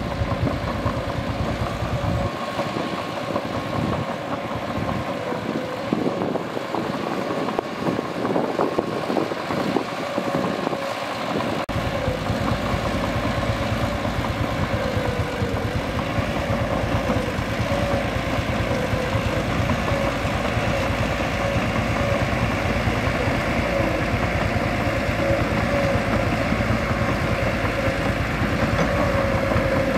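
Mitsubishi bulldozer's diesel engine running steadily as the dozer works, with a deeper low rumble coming in about twelve seconds in.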